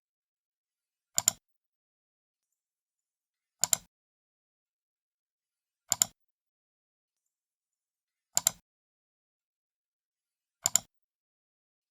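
Computer mouse left button clicked five times, about two and a half seconds apart. Each click has two close snaps, the press and then the release.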